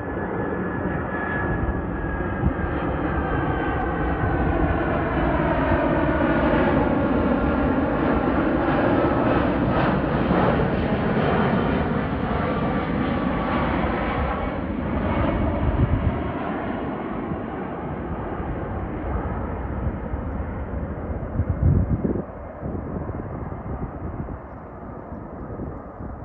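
Boeing 767-400ER airliner passing on its landing approach, its jet engines whining in several falling tones as it goes by. The sound is loudest in the middle and fades toward the end. A short, low, loud thump comes about three-quarters of the way through.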